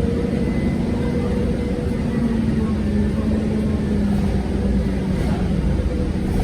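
Steady low rumble of a moving road vehicle, engine hum and road noise heard from inside, with a steady drone throughout.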